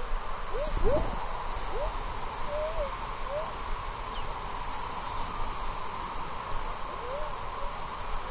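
Metal detector sounding short target tones, each bending quickly up in pitch, several in the first three seconds and one more near the end, over a steady rush of surf.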